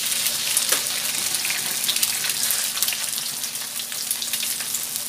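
Radish cake and a freshly cracked egg sizzling in hot oil in a wok, with a metal spatula scraping and clicking against the pan as it is stirred.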